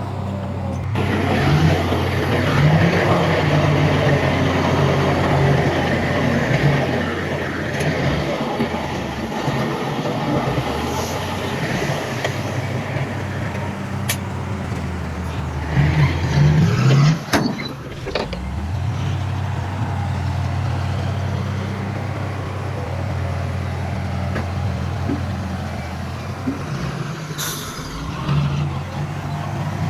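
Heavy diesel engine of earthmoving machinery running steadily, with a loud sharp knock about seventeen seconds in and a brief hiss near the end.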